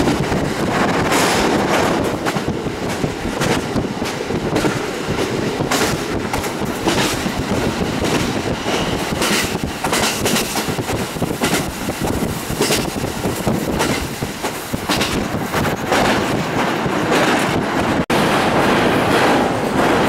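Electric commuter train running at speed, heard from on board: a steady rumble of wheels on rail with repeated, irregularly spaced clacks over the rail joints. The sound drops out for an instant near the end.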